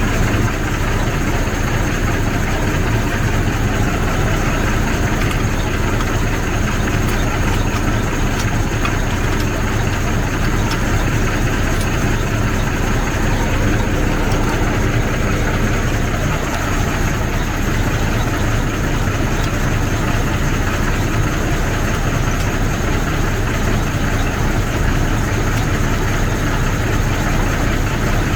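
Heavy truck's diesel engine idling steadily, a constant low running sound with no change in speed.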